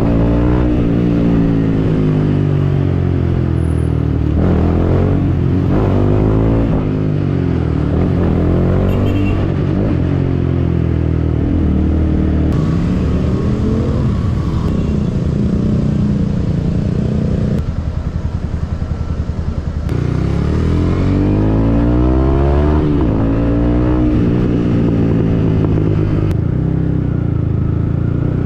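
Yamaha MT-15's single-cylinder engine through a Yoshimura aftermarket exhaust, ridden hard: the exhaust note climbs through the revs and falls back again and again with gear changes. About two-thirds of the way through it drops for a couple of seconds to a lower, rougher crackling note before pulling up again.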